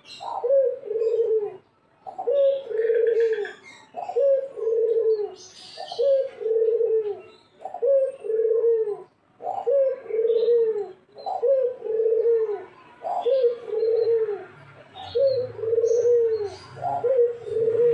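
Puter (collared dove) cooing over and over, about one coo a second, each a short rising note followed by a longer rolling note.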